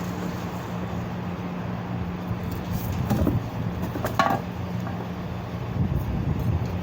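A steady low mechanical hum, like a running motor, with a few brief clatters about three and four seconds in.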